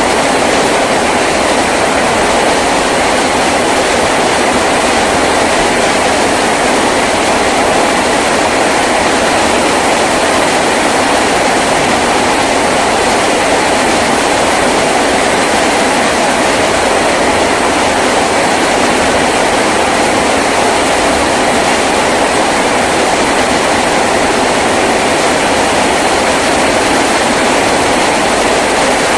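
Heavy rain drumming steadily on a tin roof, a dense even patter with no let-up.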